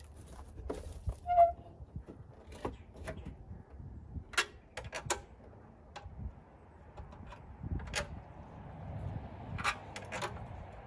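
Scattered clicks, taps and knocks of tools and metal parts being handled, with one short ringing metallic clink about a second and a half in.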